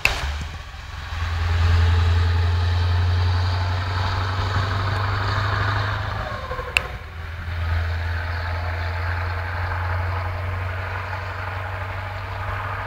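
Scania 144-530's 14-litre V8 diesel engine running with a steady deep drone. About six seconds in the note dips with a falling whine and a sharp click, then the engine picks up again.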